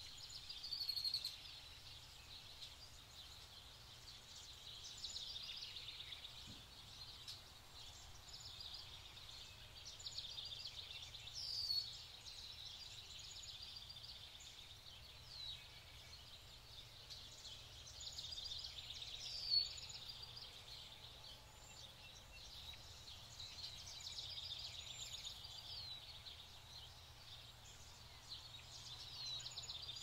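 Small birds chirping and twittering, with a few sharp high calls; the loudest comes about two-thirds of the way through. Underneath is a faint steady low rumble.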